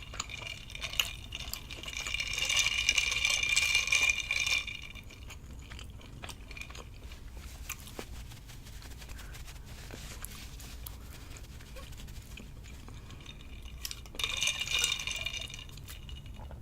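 Eating sounds: quiet chewing and mouth clicks, broken by two long, high-pitched, whistly slurps of noodles. The first slurp starts about two seconds in and lasts about two and a half seconds; the second is shorter and comes near the end.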